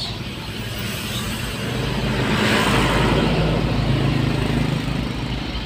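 Toyota Kijang Innova's petrol engine and road noise heard from inside the cabin while creeping through heavy traffic, the sound swelling in the middle and easing off again.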